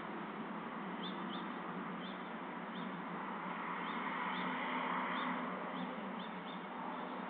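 Short high chirps of a small songbird, repeating about once or twice a second, over a steady hiss.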